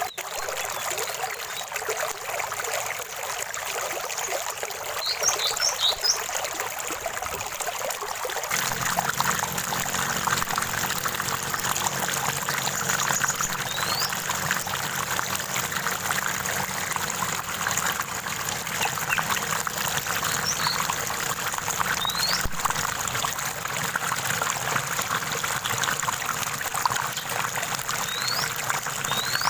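Stream water trickling and splashing steadily, with a few short high bird chirps and several brief rising whistled bird notes. About eight seconds in, the water turns fuller and deeper.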